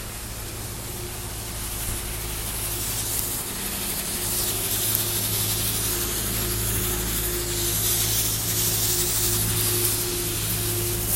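City traffic on a wet, slushy street: a steady hiss of tyres through slush that builds over the first few seconds, over a low steady engine hum.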